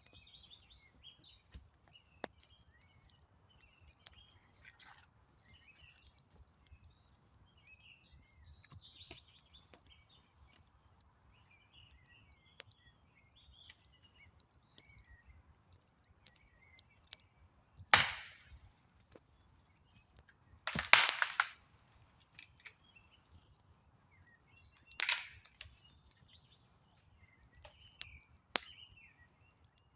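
Wood campfire crackling, with sparse sharp pops and three louder bursts of crackling in the second half. Birds chirp faintly throughout.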